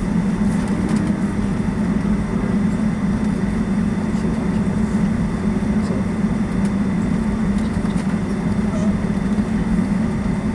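Steady drone of a Boeing 757-200's engines and airflow heard inside the passenger cabin, a deep, even hum with no change.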